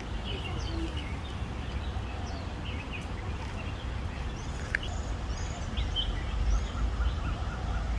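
Several small birds chirping and calling in short, high notes, busier in the second half, over a steady low rumble.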